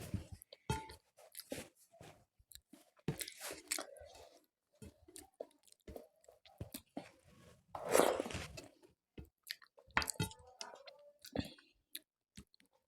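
Close-up eating sounds: chewing and crunching of food, with a louder crunching bite about eight seconds in.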